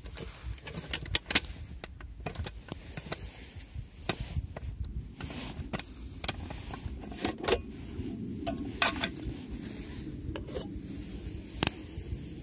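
Irregular clicks, knocks and rubbing, as of objects being handled, over a low steady rumble.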